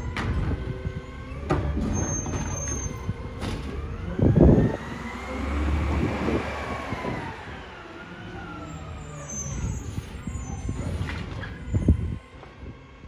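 Automated side-loader garbage truck's engine and hydraulics revving up and back down, the pitch rising and then falling, with a loud bang about four seconds in and another near the end.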